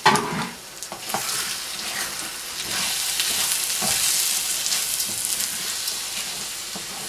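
Rice, onions and beaten egg sizzling in a hot wok while a wooden spatula stirs and scrapes through them, with a few short knocks of the spatula against the pan. The sizzle grows louder after about the first second.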